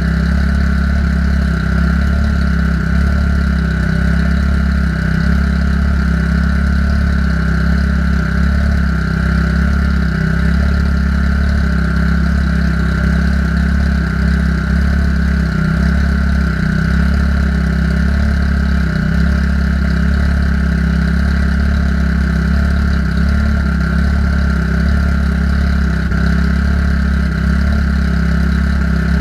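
Car engine idling steadily for the whole stretch, as it is left running to burp trapped air out of the cooling system after a new radiator was fitted.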